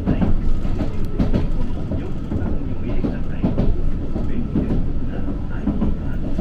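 Kagoshima City tram running along its track, heard from inside the car: a steady low rumble of wheels on rail with frequent short clattering knocks.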